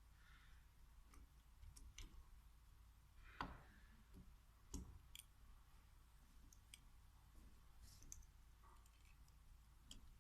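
Near silence with faint, scattered clicks and taps of small metal parts and hand tools being handled during injection-pump work, two of them louder knocks about three and a half and five seconds in.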